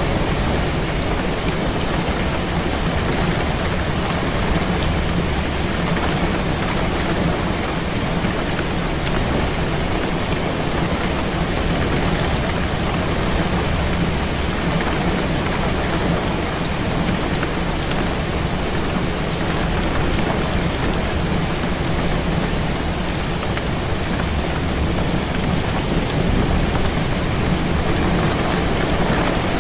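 Heavy rain beating steadily on a window, with a constant low rumble underneath and no single claps or breaks.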